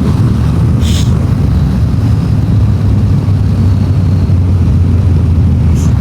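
Yamaha Ténéré 700's parallel-twin engine running steadily under way, with road and wind noise on the rider's microphone and a short hiss about a second in.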